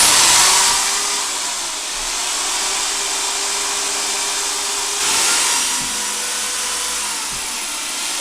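Electric power tool motor running steadily with a hissing whine, switched on suddenly and swelling again about five seconds in.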